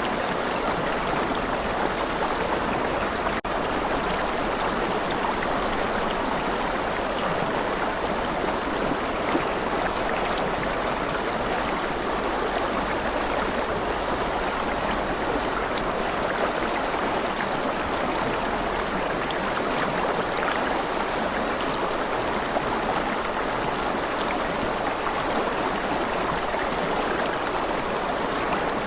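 A rushing river flowing steadily, a dense even rush of water.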